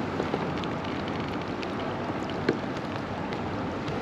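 Steady rain falling, an even hiss with scattered ticks of individual drops and one slightly louder tick about two and a half seconds in.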